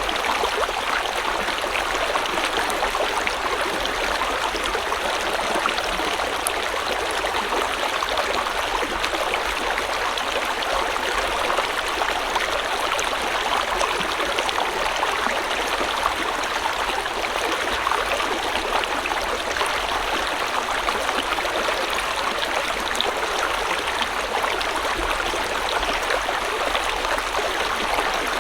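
River water flowing over rocks: a steady rush with fine splashing and gurgling, unchanging throughout.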